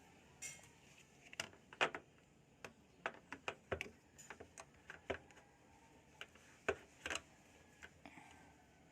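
Irregular sharp clicks and taps of a washing machine's plastic lint filter being handled and fitted back into place in the drum, loudest around two seconds and seven seconds in.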